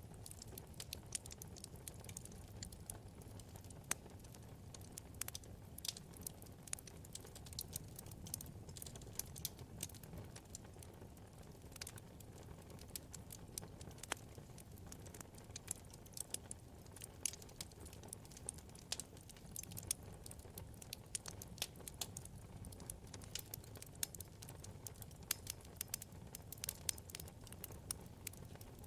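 Wood fire burning in a fireplace: a low steady rumble of flames with irregular small, sharp crackles and pops from the burning logs.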